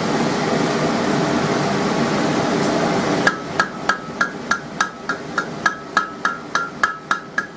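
A steady fan-like rush, then from about three seconds in a regular run of hammer blows on hot steel at the anvil, about three or four a second, each with a short metallic ring. The blows are working a punched hole in a steel bar larger.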